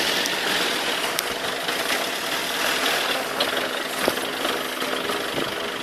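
An engine running steadily, with a constant hiss of noise around it.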